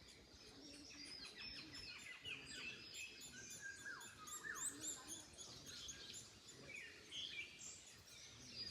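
Several small songbirds chirping and singing at once, faint, with quick overlapping high notes and a few falling whistled notes about four seconds in.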